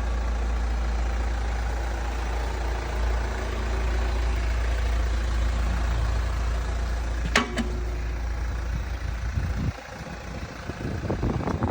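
The 2.2-litre four-cylinder turbo-diesel of a 2013 Hyundai Santa Fe idling steadily, with a sharp click a little past halfway. Near the end the low rumble drops and irregular crackling noise takes over.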